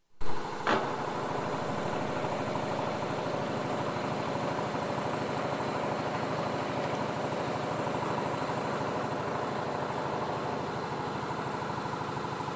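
A machine-shop drill running steadily while drilling a 1/8 inch hole into the end of a threaded rod, its motor hum even throughout. There is a sharp knock right at the start and a brief sharp sound under a second in, and then the running holds until it cuts off suddenly near the end.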